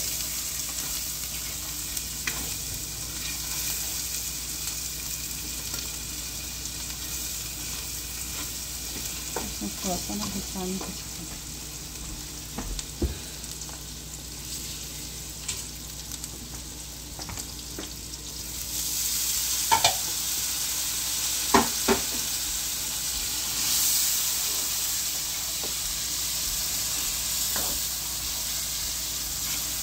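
Potatoes, onion and tomato with spices sizzling in oil in a deep nonstick wok, with a spatula stirring and scraping through them now and then. The sizzle grows louder a little past halfway, with a few sharp knocks against the pan.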